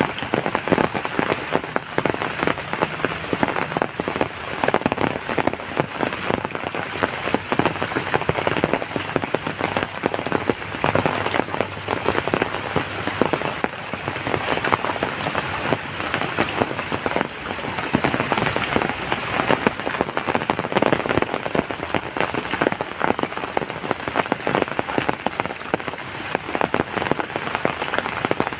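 Heavy rain pelting down steadily, a dense patter of drops striking surfaces.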